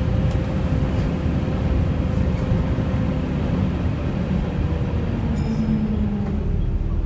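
Volvo B7TL double-decker bus running: a dense low drone with a steady whine from its loud cooling fan, the 'hoover', which sags slightly in pitch over the last couple of seconds.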